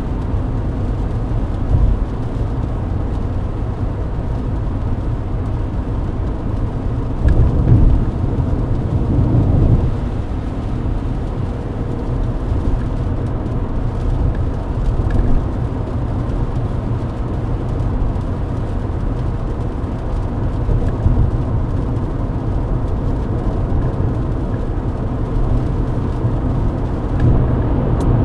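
Mercedes-Benz W124 at highway speed on a wet road, heard from inside the cabin: a steady low rumble of tyres and engine, with a louder swell about a quarter of the way in.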